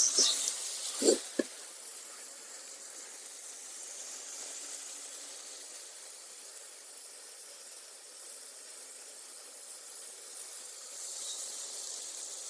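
Steady sizzling hiss from a small, very hot tandoor with chicken pieces cooking inside. Two short knocks about a second in.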